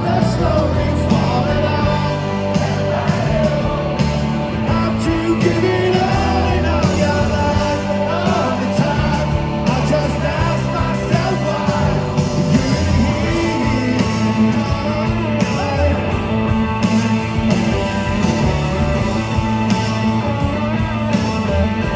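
A rock band playing live through a concert PA, with a sung vocal over electric guitars, bass and drums, recorded from the crowd.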